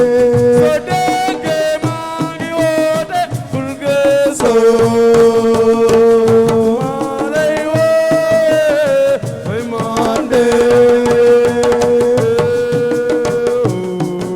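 Assiko band music: hand drums playing a busy rhythm under a melody of long held notes that bend in pitch.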